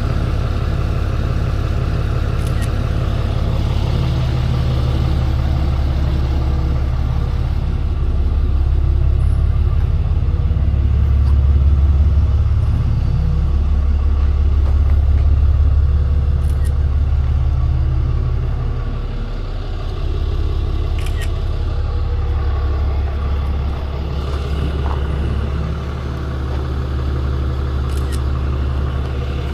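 Tow truck's engine running steadily at idle, a little louder for several seconds in the middle, with a few faint clicks.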